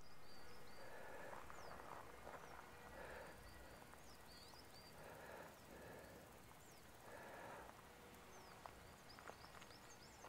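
Near silence: quiet open-air ambience with faint, high, short chirps of distant small birds scattered throughout.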